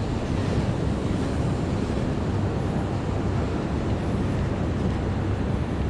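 Steady rush of ocean surf mixed with wind blowing on the microphone.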